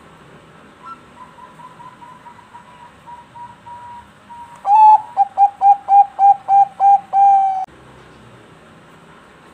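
Zebra dove (perkutut) singing: a run of soft, quick coos, then from about halfway a louder series of about ten rapid rolling coos that ends in one held note.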